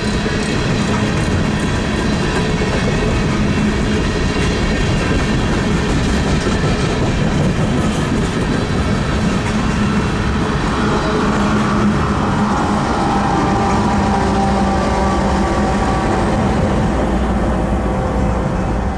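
Freight train of coal hopper cars rolling past, wheels clicking over the rails. About halfway through, the rear distributed-power GE AC4400CW diesel locomotives pass, and a steady engine whine joins the rumble.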